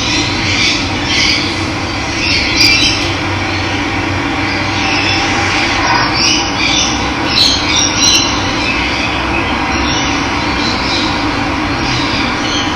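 Running water rushing steadily, with many birds chirping over it.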